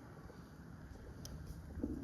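Low rumbling wind noise on a smartphone microphone, with a brief bump near the end.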